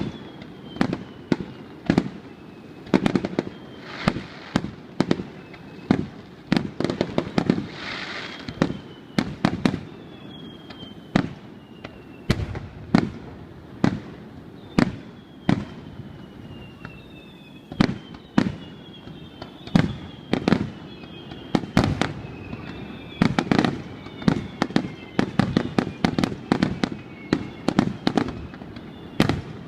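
Fireworks display: a steady run of shell bursts, dozens of sharp bangs that each trail off, with thin whistles sliding down in pitch between them.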